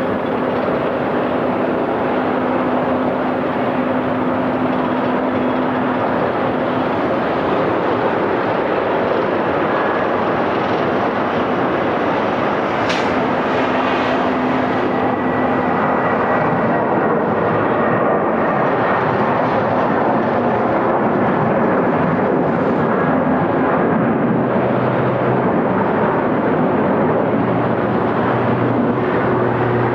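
Jet airliner engines running, a loud steady rush with a faint whine in it.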